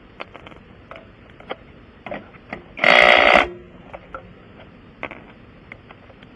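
An impact wrench runs in one short burst about three seconds in, driving a lug nut as the wheel goes back on the hub. Light clicks and taps of tools and hardware come before and after it.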